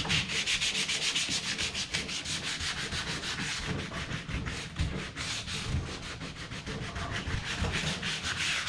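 Hand sanding of wood with coarse sandpaper in quick, even back-and-forth strokes, several a second: the rough sanding stage on a wooden drawer top.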